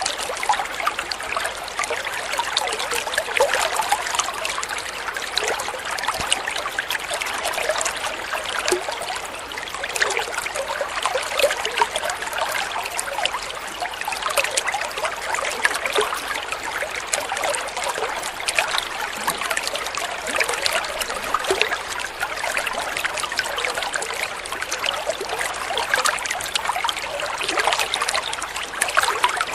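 Water flowing and trickling steadily: a dense, even splashing and babbling.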